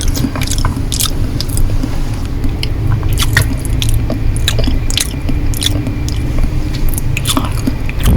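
Close-miked chewing of Korean noodles: irregular wet mouth clicks and smacks over a steady low rumble.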